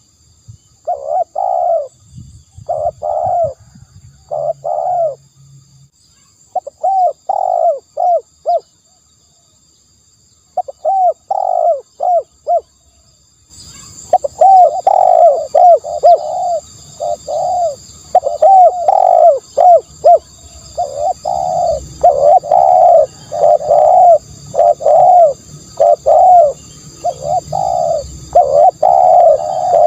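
Spotted doves cooing in repeated short phrases of a few coos each, with pauses between. About halfway through the cooing turns dense and nearly continuous, over a faint steady high buzz.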